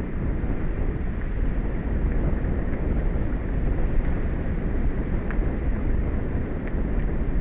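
Steady wind rumbling on the microphone, with a few faint ticks in the second half.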